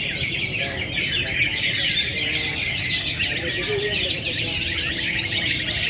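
Dense chorus of many caged songbirds singing at once, rapid overlapping chirps and trills without a break, over a low steady crowd hum.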